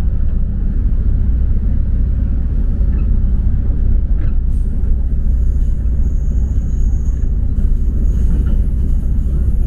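Pingxi Line diesel train running along the track, heard from inside the carriage as a steady, loud low rumble while it passes through a tunnel and out into the open.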